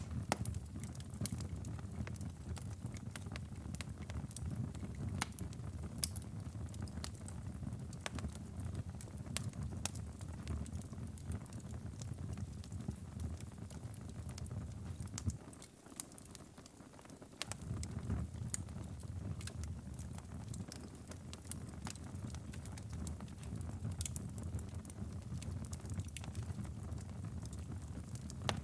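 Wood fire crackling, with many irregular sharp pops over a low steady rumble. The rumble cuts out for about two seconds around the middle, then returns.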